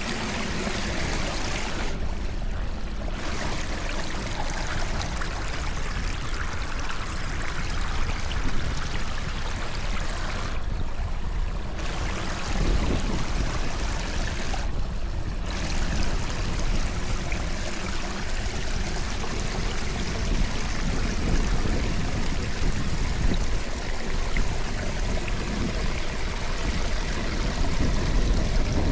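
Floodwater running steadily into a cleared storm drain, a continuous rush of water that thins out briefly three times.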